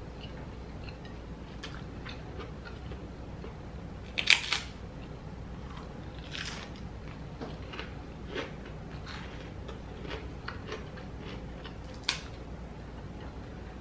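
A person biting and chewing crispy fried food eaten by hand: scattered crunches and small clicks, the loudest crunches about four seconds in and again near twelve seconds.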